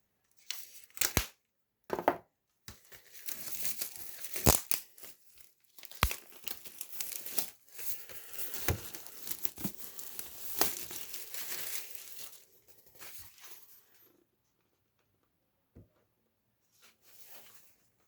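Wrapping being torn and crinkled off a vinyl record package, in irregular rips and rustles with sharp crackles. It dies away about fourteen seconds in.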